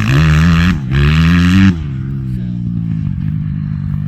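2005 Honda CRF250R's single-cylinder four-stroke engine revving hard twice, pitch climbing through each throttle pull with a brief break between, then dropping off-throttle to lower, steadier running about halfway through.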